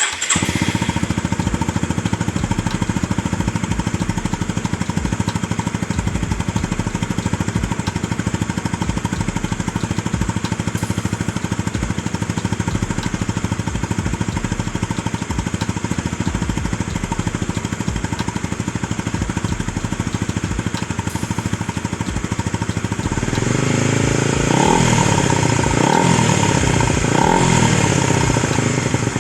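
Honda CB150R's single-cylinder four-stroke engine running through a WRX GP3 Limited Series aftermarket racing exhaust, idling steadily, then revved in short repeated blips for the last several seconds.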